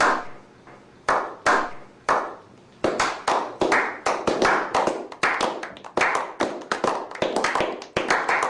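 Hand claps, each followed by a short echo: a few spaced claps, then about three seconds in they quicken into a rapid, uneven run of clapping.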